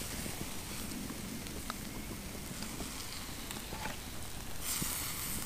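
Wood campfire crackling with scattered sharp pops while marinated chicken pieces sizzle over it; the hiss swells louder for about the last second.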